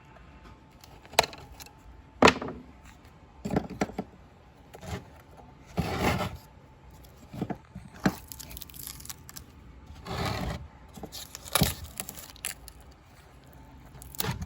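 Hands pulling the binding wire and paper off a spent cardboard firework cake: irregular sharp clicks and knocks of the wire against the tubes, with a few longer scraping, tearing bursts of paper.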